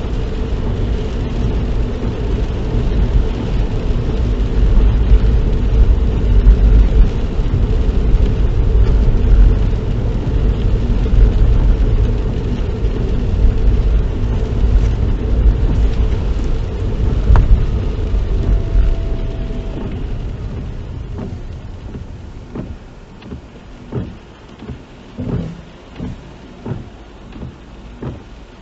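Car cabin noise while driving: a steady low road and engine rumble that fades about two-thirds of the way through as the car slows, followed by a run of short, regular soft knocks.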